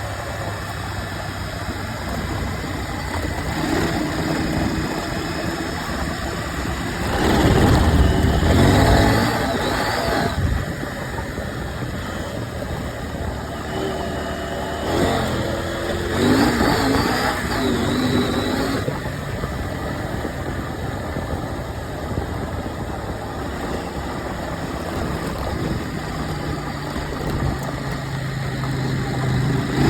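KTM 790 Adventure's parallel-twin engine running under way, with two louder stretches of revving up and back down, about eight seconds in and again about sixteen seconds in.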